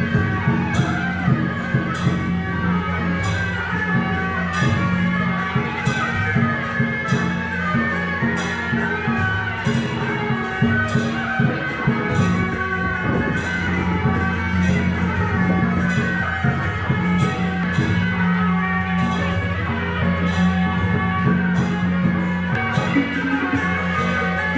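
Taiwanese temple-procession band music: shrill suona melody over a busy rhythm of drums, gongs and cymbals, with frequent sharp strikes.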